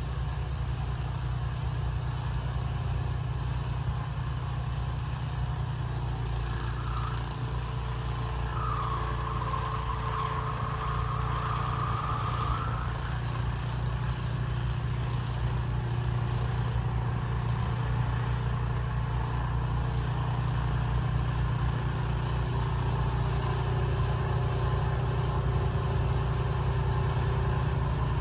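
Benchmark 30-inch 420cc tracked snowblower running steadily, its single-cylinder engine holding a constant drone.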